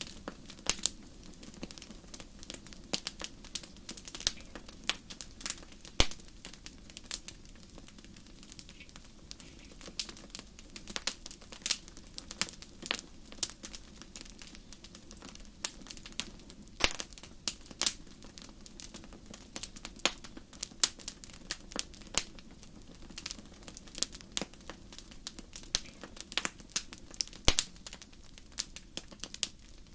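Wood fire crackling in a fireplace: many sharp, irregular pops and snaps over a low steady rumble of the burning.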